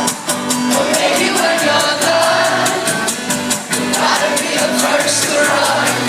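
Live pop concert music recorded from the audience: a steady, fast electronic beat with synths and a sung melody.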